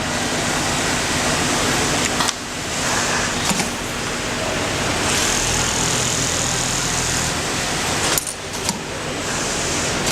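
Automatic pattern sewing machine stitching, a fast, steady mechanical needle rattle over a motor hum, with brief clicks and dips about two seconds in and near the end.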